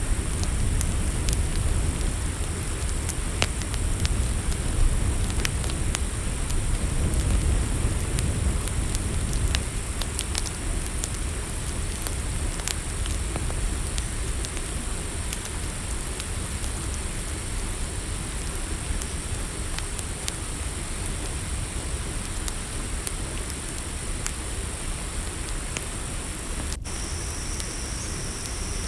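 Campfire crackling, with scattered sharp pops over a low rumble, under a steady high chirring of crickets. Near the end there is a brief cut, and a second, lower cricket trill joins.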